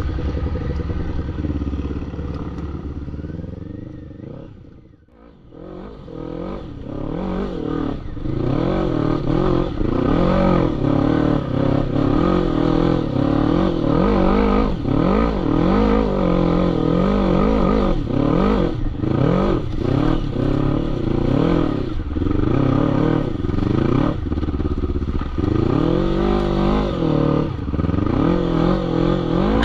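ATV engine revving up and down again and again as it is ridden off-road. The sound fades away about five seconds in, then comes back loud and keeps rising and falling.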